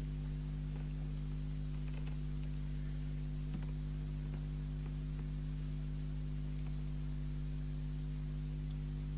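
Steady mains hum: a low buzz at a fixed pitch that does not change, with one faint click about three and a half seconds in.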